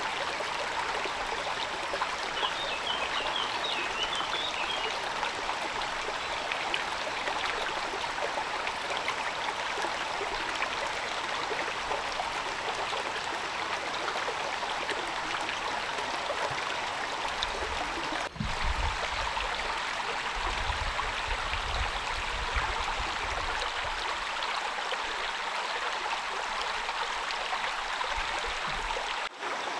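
Heavy rain falling steadily, a continuous rushing hiss. A low rumble comes and goes about two-thirds of the way through.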